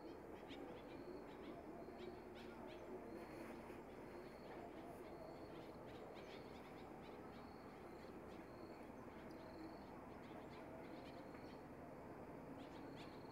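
Faint outdoor ambience of birds calling: a short high note repeats about once a second over softer, lower calls and a few small clicks.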